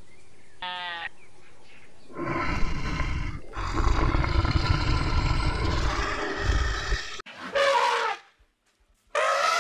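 A tree frog's short croak, then a brown bear's long, loud growl for about five seconds, then two short pitched animal calls near the end.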